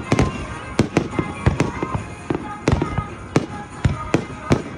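Fireworks going off: a dense, irregular run of sharp bangs and booms, about three a second.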